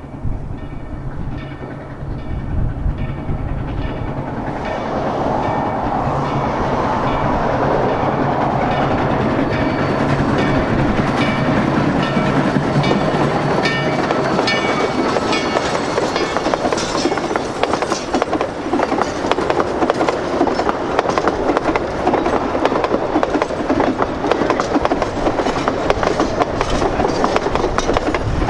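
Durango & Silverton narrow-gauge steam train led by locomotive 493 rolling past, growing louder over the first several seconds. From about ten seconds in, the wheels of the passing cars clatter rapidly and steadily over the rail joints.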